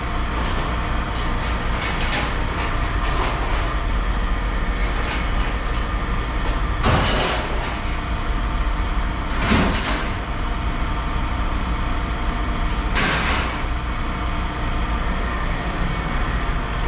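Heavy scrap-handling machinery running with a steady low rumble, with three brief, louder crashes of scrap metal spread through.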